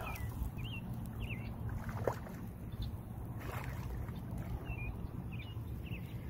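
Outdoor pond ambience: a steady low rumble with brief bird chirps now and then and a single click about two seconds in.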